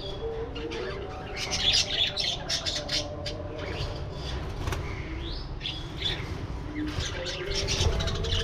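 A flock of budgerigars chirping and chattering, with busier bursts about two seconds in and again near the end, over a steady low rumble.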